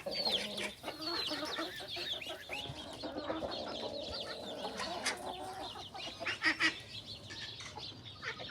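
Chickens clucking, with many small chicks peeping in short, high chirps that slide down in pitch.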